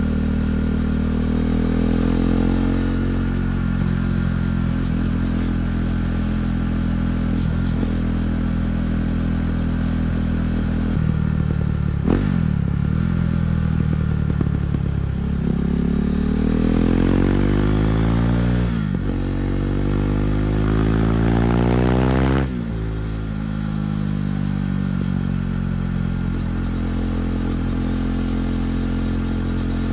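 KTM 390 Duke's single-cylinder engine breathing through an aftermarket Akrapovic exhaust. It runs steadily at first, then pulls hard with its pitch climbing, dropping sharply at each upshift about twelve, nineteen and twenty-two seconds in, and settles into a steady cruise.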